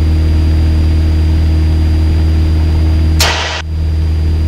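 Cessna 172 Skyhawk's piston engine running steadily at full power on the takeoff roll. About three seconds in, a half-second burst of hiss cuts across it.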